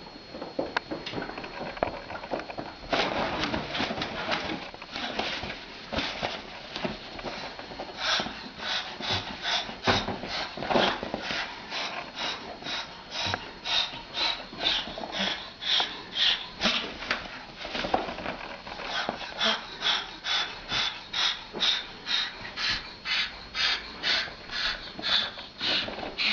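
An animal making a steady run of short, breathy huffs, about two a second, from about eight seconds in. Before that come irregular scratchy noises.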